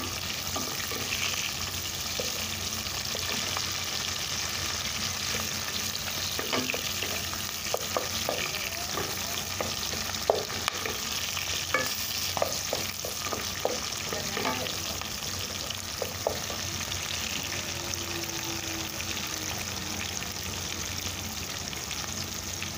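Sliced ginger, garlic and green chilies sizzling steadily in hot oil in a pot, stirred with a wooden spatula that knocks and scrapes against the pot now and then, most often through the middle stretch.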